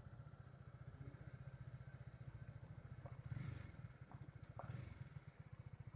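Faint motorcycle engine idling at a standstill, a fast, even low pulse with no revving.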